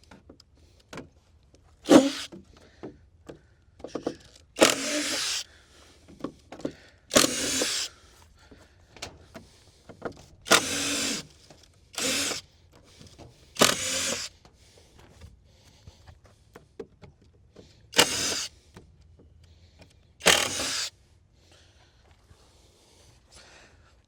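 Handheld power drill running in short bursts, about eight of them, each lasting around half a second to a second, with pauses between.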